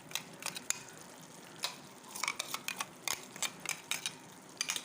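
A spoon scraping and clinking against a cooking pan in short, irregular strokes as coconut paste is added to frying chicken masala.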